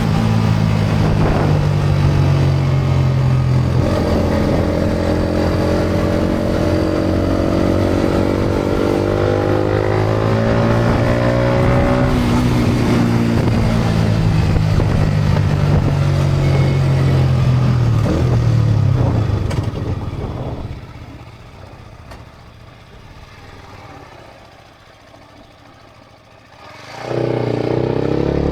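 Yamaha MT-125's single-cylinder engine through a GPR aftermarket exhaust, pulling up through the gears. The pitch climbs and then drops suddenly at each shift. It then eases off with falling pitch and goes much quieter for several seconds, before revving up loudly again near the end.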